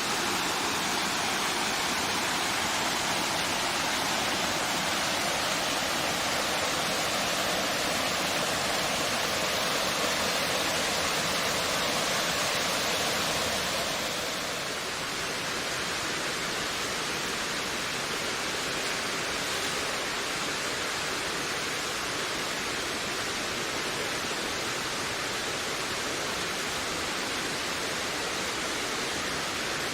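Wind rushing through forest trees in a steady, dense hiss that eases a little about halfway through.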